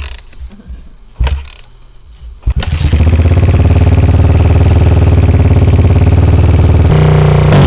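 Two sharp knocks, then about two and a half seconds in a motorcycle engine starts running loud and steady with a rapid, even firing pulse; its pitch steps up slightly near the end.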